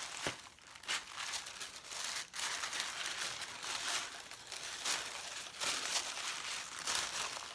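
Plastic or paper packaging being unwrapped by hand: irregular crinkling and rustling with a few sharp crackles.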